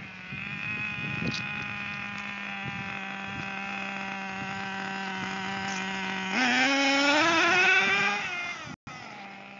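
Radio-controlled truck's motor whining at a steady pitch. About six seconds in it gets louder and rises in pitch as the truck speeds up, wavers, then winds back down. The sound drops out for a moment near the end.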